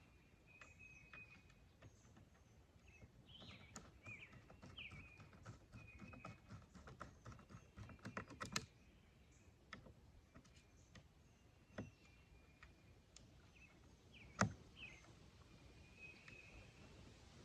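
Faint, scattered metallic clicks and clinks of a K31 straight-pull rifle's parts being fitted together during reassembly, with a quick run of clicks about eight seconds in and a sharper knock near fourteen seconds. Birds chirp faintly in the background.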